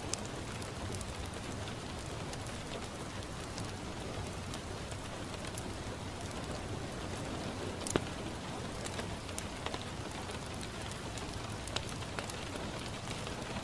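Steady rain falling on a window, with scattered sharp crackles and pops from a wood fire, the loudest a little past halfway.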